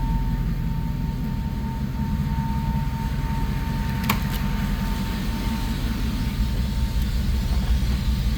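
Car engine idling through its exhaust, a steady low rumble with a thin steady whine above it. A single sharp click about four seconds in.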